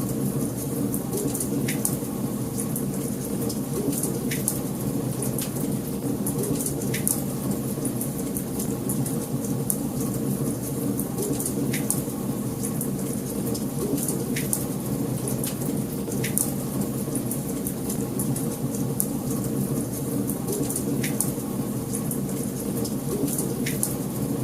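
Wood fire burning in a fireplace: a steady low rush of flames with frequent irregular crackles and sharper pops of the burning logs.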